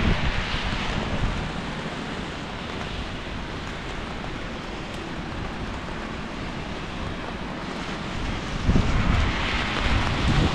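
Steady hiss of rain on a wet city street, with wind buffeting the microphone in heavier gusts near the end.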